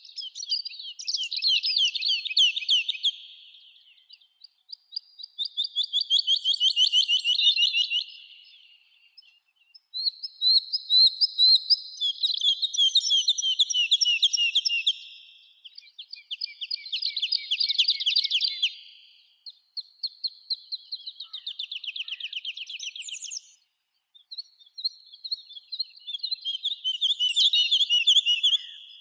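A songbird singing the same kind of song over and over: phrases of two to four seconds made of rapid repeated notes in a fast trill, with short pauses between them. Fainter, higher chirps from other birds come in now and then.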